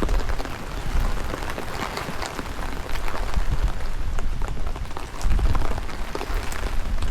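Steady rain falling and pattering, with many small drop ticks, over a low rumble of wind buffeting the microphone that swells about five seconds in.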